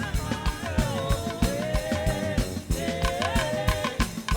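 Live band playing upbeat Nigerian gospel praise music, with a drum kit keeping a fast, even beat under melodic lines.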